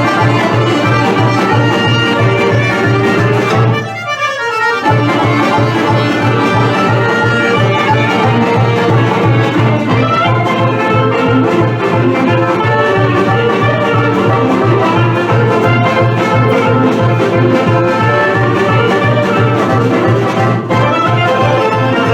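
Vlach folk dance medley led by accordion over a steady, even bass beat, with a short break and a falling sweep about four seconds in.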